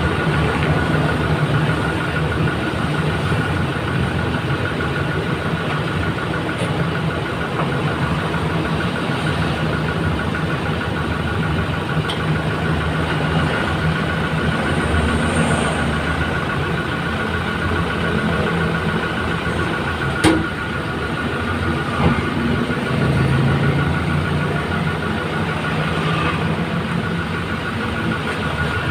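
Toyota Innova Reborn's engine idling steadily, with a steady high whine running over it. Two short sharp clicks come about two-thirds of the way through.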